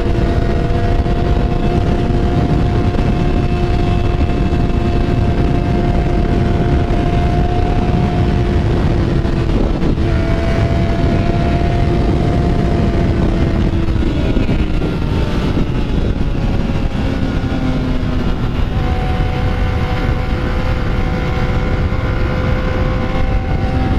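Motorcycle engine running at a steady pace under heavy wind noise on the microphone. About fourteen seconds in the engine note drops, then climbs again a few seconds later.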